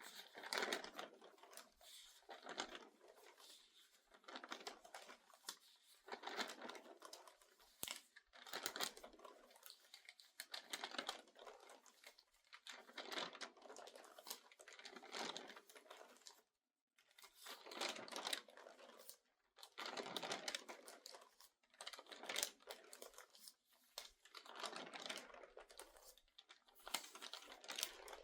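Crinkly newspaper pages being turned quickly front to back, each turn a crackling rustle of paper coming about every one to two seconds, with a brief break in the sound a little past halfway.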